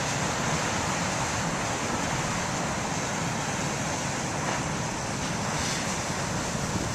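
Big surf breaking and washing ashore, mixed with strong wind on the microphone: a steady, even rush with no separate crashes standing out.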